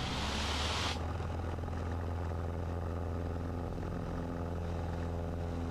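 Cessna 150's four-cylinder Continental O-200 engine running steadily at full throttle on the takeoff roll, with a brief hiss in the first second.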